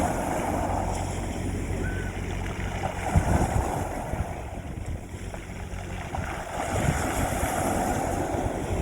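Sea waves washing onto a beach, the surf swelling at the start and again near the end, with a few gusts of wind thumping on the microphone.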